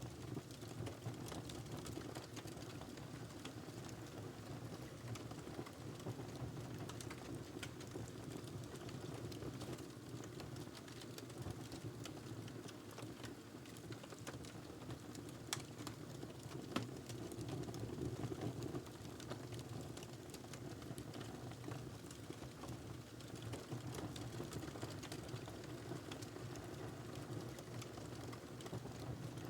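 Wood fire crackling steadily, with scattered small pops and two sharper pops a little past halfway.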